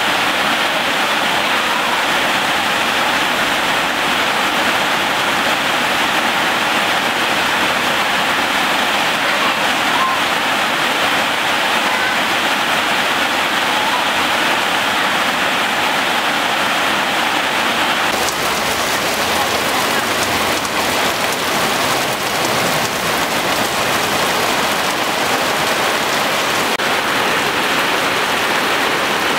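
Heavy rain pouring steadily in a dense, even hiss. A little past halfway it turns brighter and more crackly, with many separate drop hits.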